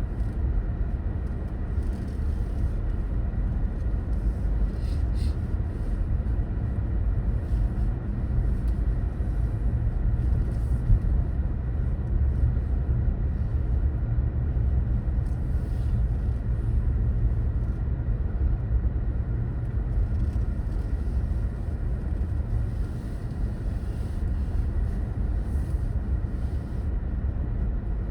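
A car driving along: a steady low rumble of road and engine noise that holds even throughout.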